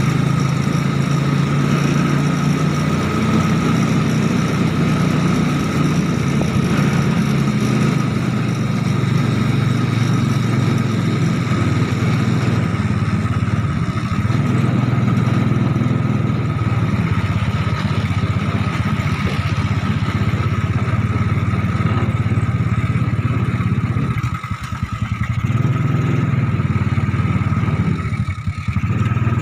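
Small motorcycle-type engine of a home-built mini Willys Jeep running steadily while driven, its level dropping briefly twice near the end.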